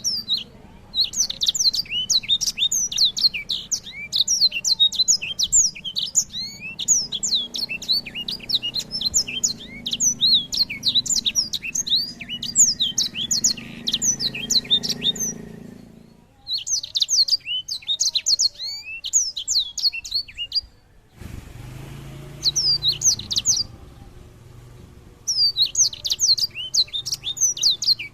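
A small cage songbird singing a fast, varied song of quick high chirps and trills, in long unbroken phrases separated by short pauses.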